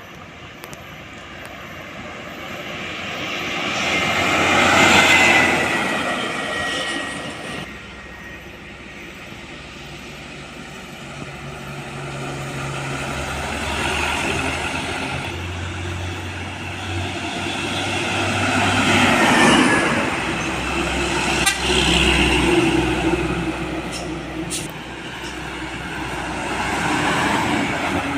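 Heavy diesel trucks passing one after another on a road, each swelling up with engine and tyre noise and fading away, three main passes about 5, 19 and 27 seconds in.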